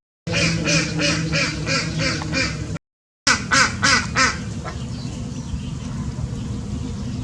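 A bird giving quick runs of repeated calls, several a second, in two bursts broken by short cuts in the audio, followed by a steady background hum.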